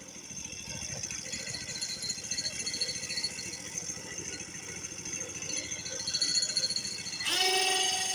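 Machinery rattling steadily, with a short pitched sound about seven seconds in.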